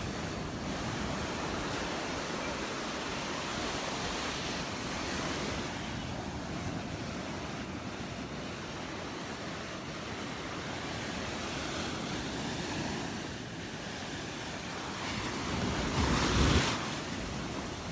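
Small surf washing onto a sandy beach, a steady hiss that swells and eases, with wind buffeting the microphone. A louder rush comes near the end.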